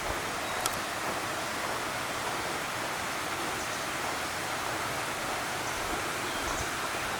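Steady rush of running water, with a single sharp click just under a second in and a few faint high chirps later on.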